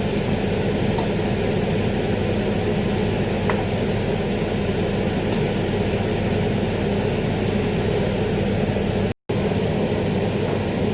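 Steady sizzling of a pan of minced beef and chopped tomatoes cooking on the hob, over a steady low hum. The sound cuts out for a split second about nine seconds in.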